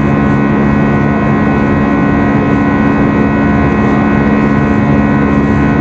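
Steady drone of an Airbus A320's jet engines heard inside the passenger cabin during the climb after takeoff, with a steady hum made of several tones over a broad rush of air noise.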